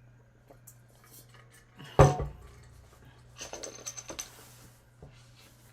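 Dishes and tableware handled while eating: one loud knock about two seconds in, then about a second of clinking and rattling.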